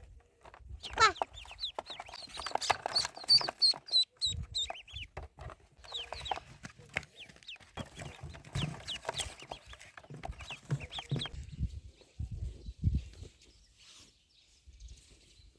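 Poultry calling: clucking with downward-sweeping calls and a quick run of high peeping from young birds. A few low thumps come near the end.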